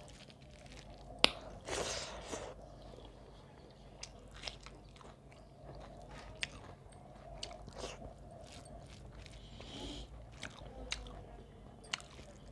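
Close-miked chewing and wet mouth smacks of a person eating by hand, with scattered small clicks and crunches. There is one sharp click about a second in.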